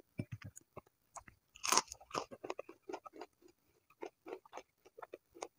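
Close chewing of crispy battered fried tempeh: a quick run of crunches, with one louder crunch just under two seconds in.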